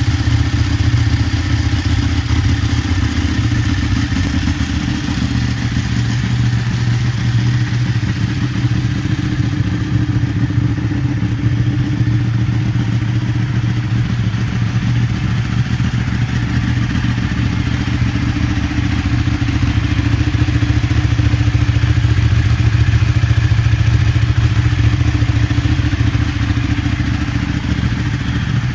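Ducati 1199 Panigale's Superquadro L-twin engine running at a steady idle.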